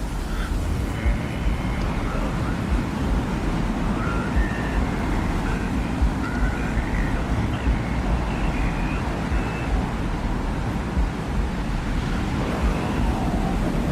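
Steady low rumbling wind of a desert ambient soundscape, with faint short high tones scattered through it.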